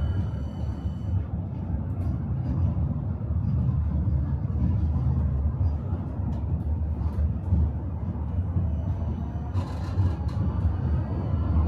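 Tram running along its rails: a steady low rumble of wheels on track, with occasional faint clicks and a brief hiss near the end.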